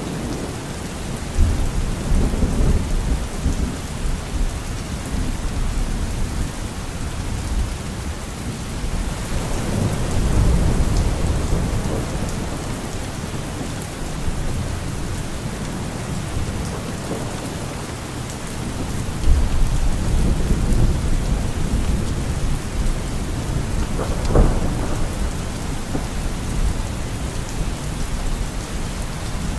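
Steady heavy rain with deep thunder rolling in and fading away about three times, and one sharper crack of thunder late on.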